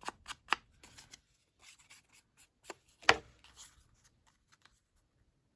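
Distress Oxide ink being rubbed onto the edges of paper: soft scuffing and rubbing, with a few light taps, the sharpest about three seconds in.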